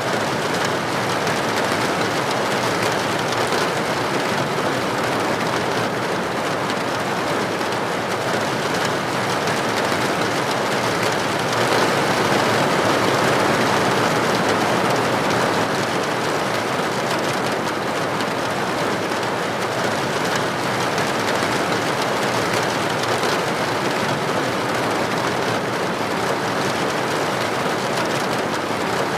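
Steady rain: a dense, even hiss of countless drops with no breaks, swelling slightly a little before halfway through.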